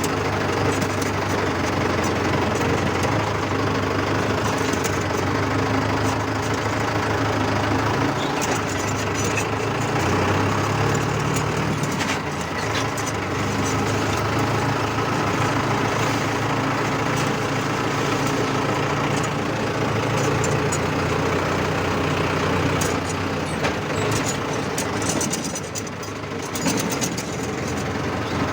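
Mahindra tractor's diesel engine running steadily, its pitch stepping up a little about ten seconds in.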